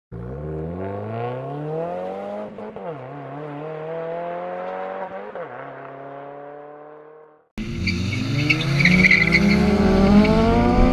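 A car engine accelerating hard through two upshifts, its pitch climbing and dropping back at each shift, then fading out. After a sudden cut, an engine revs hard and climbs in pitch with a short tire squeal.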